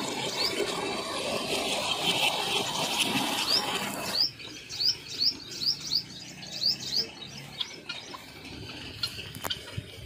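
A bird giving a quick run of short, high chirps, about three a second, for a few seconds. Under the first part is a dense rushing noise that stops suddenly about four seconds in.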